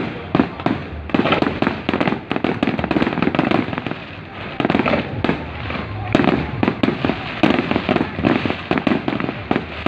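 Fireworks display going off: dense, rapid bangs and crackling pops with a brief lull near the middle, then thick volleys again.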